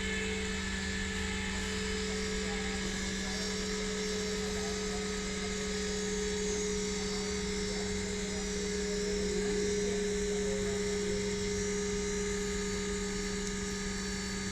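EMD WDP4B diesel locomotive engine running steadily, an even drone with constant pitch and level.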